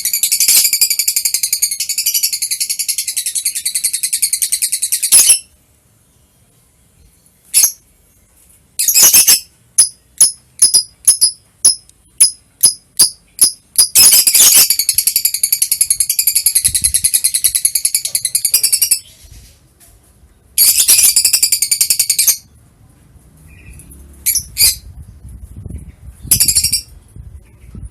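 Lovebird chattering: long runs of rapid, shrill twittering lasting several seconds each, broken by a string of separate sharp chirps about two a second and a few single calls near the end.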